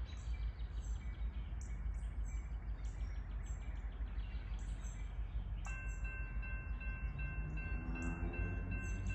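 Birds chirping repeatedly over a steady low rumble near the railroad tracks. About six seconds in, a steady ringing of several high tones starts and carries on.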